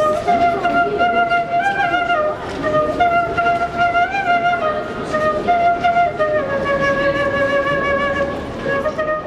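A wind instrument, flute-like in tone, plays a slow melody of long held notes. The line rises briefly a couple of times and settles lower about two-thirds of the way through, over a steady bed of busy background noise.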